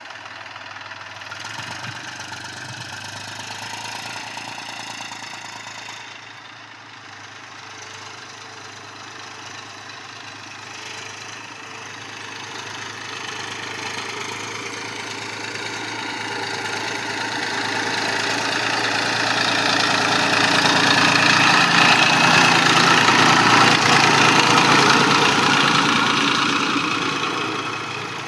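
Tractor engine running steadily, growing louder over about ten seconds to a peak a little past two thirds of the way through, then fading near the end.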